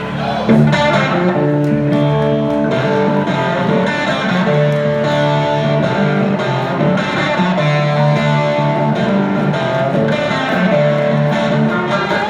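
Live band music led by electric guitar, played without vocals: the instrumental opening of a song.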